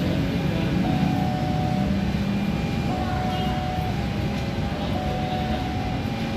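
Steady low rumble of a train at a railway station, with a steady mid-pitched hum that breaks off and starts again about every two seconds.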